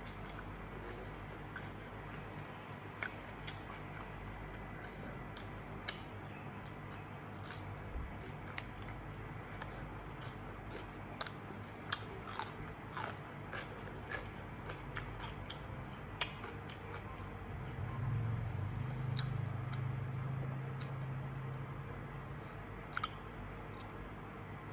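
A person chewing and biting food close to the microphone, with scattered crisp crunches and wet mouth clicks. A low hum rises for a few seconds about two-thirds of the way through.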